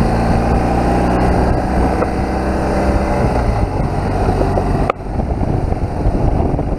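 BMW R1200GS boxer-twin engine running steadily while riding on sealed road, with wind and tyre noise over it. The sound dips out briefly about five seconds in.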